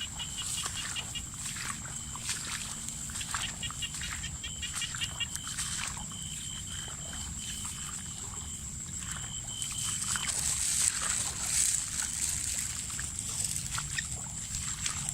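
Water sloshing and splashing as someone wades through shallow water checking set fishing lines. Behind it are a steady high-pitched whine from night insects and a rapid trill that stops about ten seconds in.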